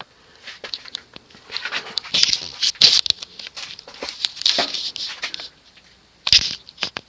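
Hands handling a ceiling fan's switch housing and controls: a run of scratchy rubbing and small clicks, then one sharp click about six seconds in.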